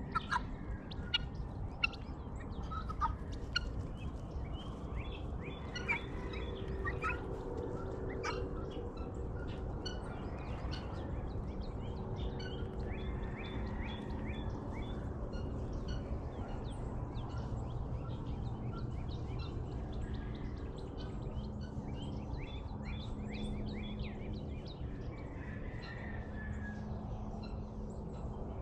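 Dawn chorus of many small birds chirping, with louder harsh guineafowl calls in the first few seconds, over a steady low rumble and faint hum.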